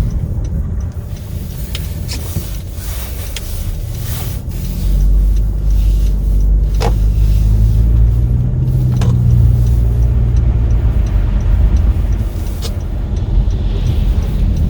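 Car engine and road noise heard from inside the cabin while driving, a steady low rumble that grows louder about five seconds in as the engine hum rises.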